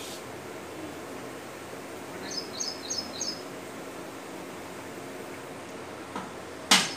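Steady outdoor background noise with a small bird giving four quick high chirps about two seconds in. Near the end comes a single sharp knock, the loudest sound, with a fainter tap just before it.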